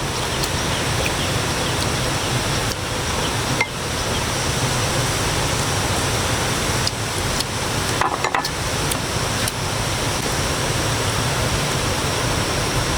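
Steady heavy rain, an even rushing hiss with a few faint clicks.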